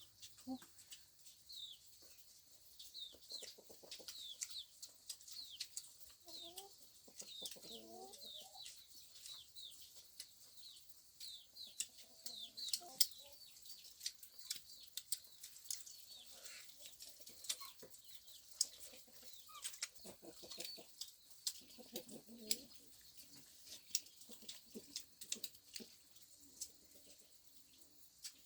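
Chickens, faint: low clucking in several short runs and many quick high falling chirps, with scattered small clicks.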